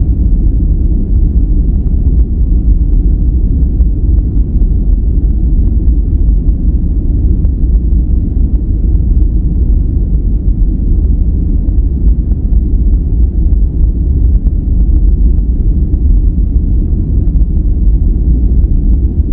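Steady, continuous relaxation noise with most of its weight in the deep bass, a low even rumble with little high hiss and no change over time.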